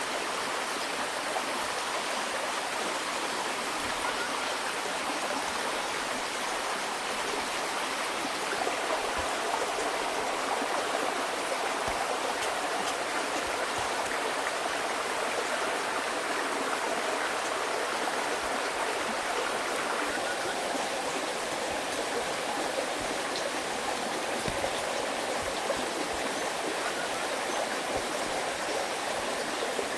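Steady rushing water noise, like a flowing stream.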